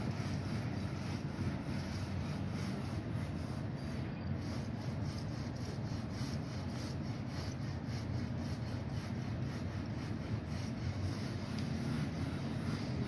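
Wind rumbling on the microphone: a steady, low, fluctuating rumble with no bird calls standing out.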